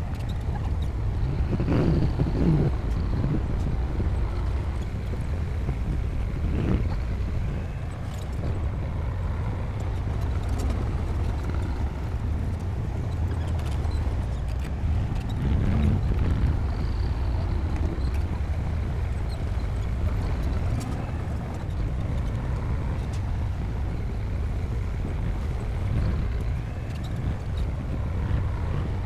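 Heavy diesel earthmoving machinery running under load with a steady deep engine rumble, swelling in brief surges about two, seven and sixteen seconds in.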